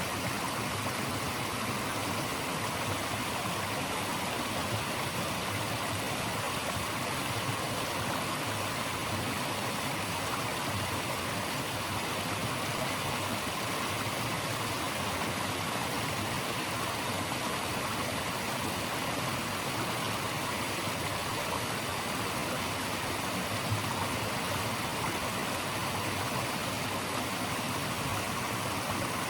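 Steady, even rush of flowing water in a stream, unchanging throughout.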